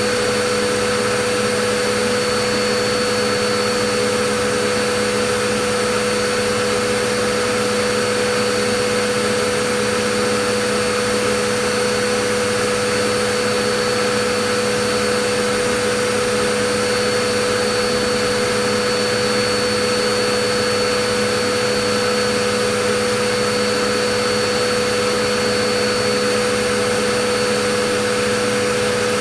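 Vacuum cleaner motor running continuously at a steady pitch: an even rushing hiss with a constant whine and hum, no change in speed.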